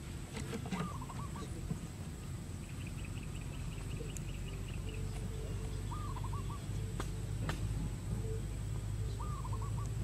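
Birds calling outdoors: a short, wavy call repeated three times, with a rapid ticking trill between the first two calls. Two sharp clicks come about seven seconds in.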